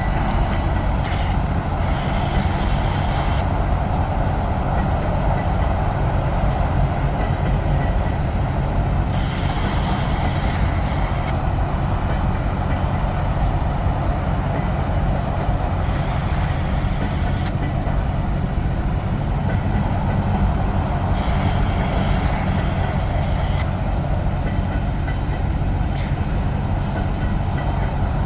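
Freight cars of a manifest freight train rolling slowly past: a steady rumble of steel wheels on rail, with short, higher-pitched rattles or squeals about every six seconds.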